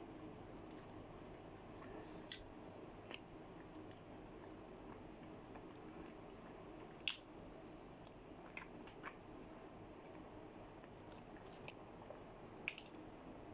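Chewing of kebab meat (lamb and chicken) with the mouth close to the microphone: soft, steady chewing with a handful of sharp wet mouth clicks, the loudest about two seconds in and about seven seconds in.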